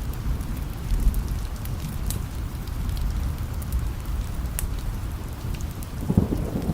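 Steady rain with a low rumble of distant thunder underneath and scattered sharp ticks. The rumble swells briefly near the end.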